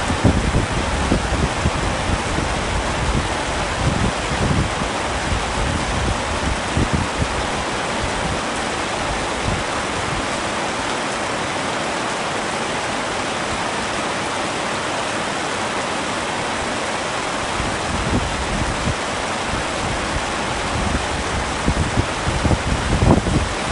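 Heavy rain pouring steadily, a dense even hiss, with low rumbling swells in the first few seconds and again near the end.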